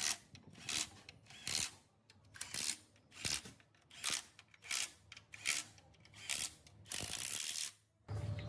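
Hand ratchet wrench tightening bolts on an engine rebuild, in repeated short strokes of clicking about every 0.8 s, with one longer run of clicks near the end.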